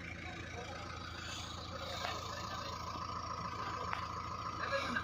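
Engine of a heavy machine idling steadily, with a steady higher tone joining about two seconds in and a couple of faint light knocks.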